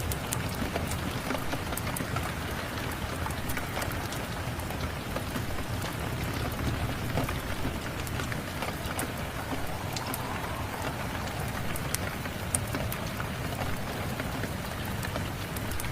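Steady rain mixed with the scattered sharp crackles of a wood fire in a fireplace.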